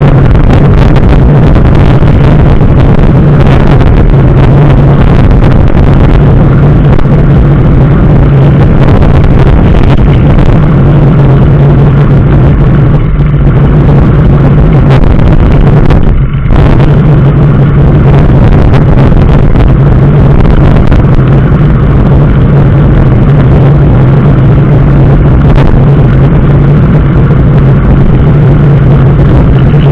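A road vehicle travelling steadily: a continuous, loud engine-and-road drone with a constant low hum. There is a brief dip about sixteen seconds in.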